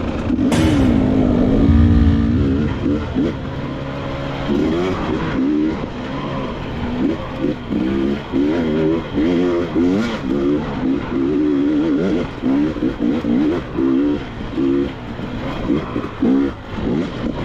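KTM 300 XC-W two-stroke dirt bike engine revving in short, repeated throttle bursts, pitch rising and falling every second or so, loudest about two seconds in.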